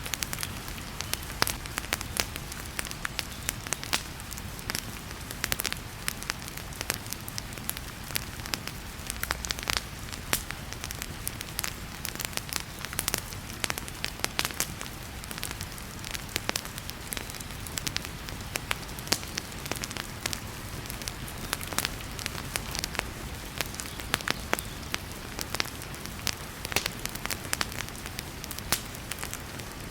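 Wood fire crackling in a fireplace, with many sharp irregular pops, over a steady hiss of heavy rain.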